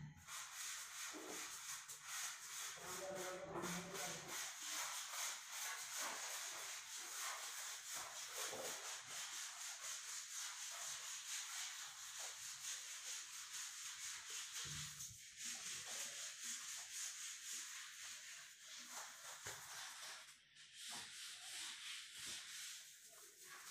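Fast, regular back-and-forth rubbing strokes over a wooden door as NC sanding sealer is worked into the wood, with a couple of short breaks.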